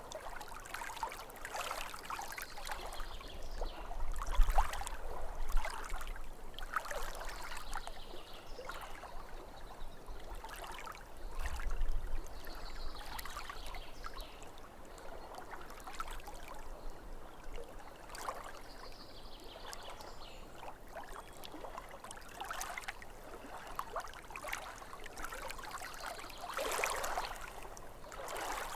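Small waves lapping at a lake's edge, an uneven run of splashes and trickles, with a deeper low surge twice.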